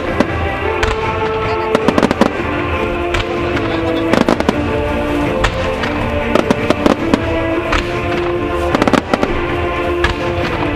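Starmine fireworks display: a rapid string of shell bursts and bangs in clusters, over music playing steadily.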